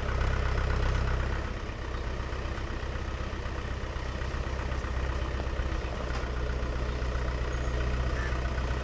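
Mahindra 575 DI tractor's four-cylinder diesel engine running steadily, dropping a little in level about a second and a half in.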